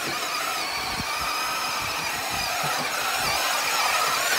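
Electric motors and gear drivetrains of radio-controlled scale crawlers whining as they drive, the pitch rising and falling with the throttle, with occasional light knocks underneath.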